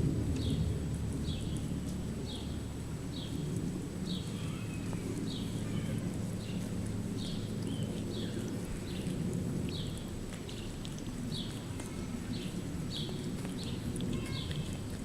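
A cat licking another cat's wet fur, a steady run of short licks about every half second to two-thirds of a second, over a low steady hum.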